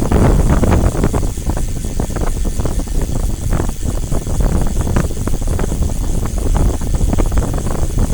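Loud low rumble with wind buffeting the microphone, as heard on a moving vehicle.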